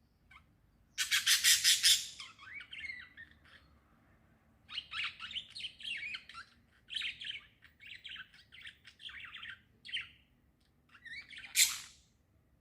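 Small birds chirping. There is a loud, harsh burst of chatter about a second in, then a run of quick high chirps, and one more loud call near the end.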